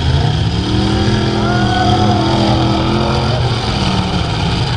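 Full-size race truck engines running hard on a figure 8 track. One engine's pitch climbs in the first second as it revs up, holds, then falls away about three and a half seconds in, over the steady noise of the other engines.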